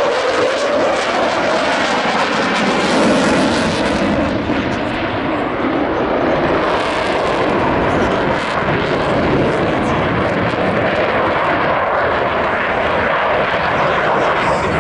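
Eurofighter Typhoon's twin turbofan jet engines at high power during a flying display: a loud, continuous rush of jet noise whose pitch shifts slowly as the fighter moves past.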